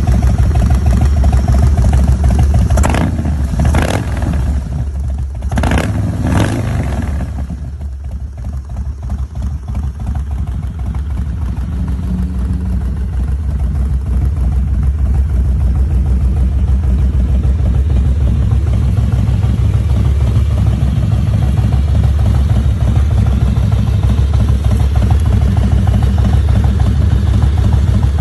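A Harley-Davidson Twin Cam 88 V-twin (1450 cc, carburetted) running through Vance & Hines exhaust pipes, with a few quick throttle blips about three to six seconds in, after which it settles back to a steady lumpy idle.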